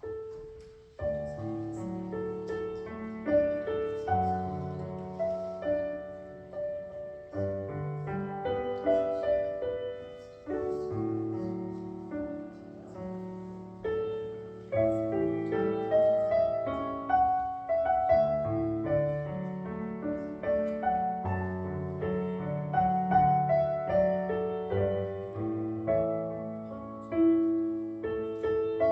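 Solo piano playing a slow worship prelude, chords and a melody of struck notes that ring and fade, starting about a second in.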